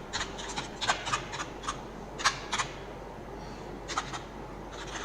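Computer mouse and keyboard clicks at an uneven pace, some single and some in quick pairs, over a faint steady electrical hum.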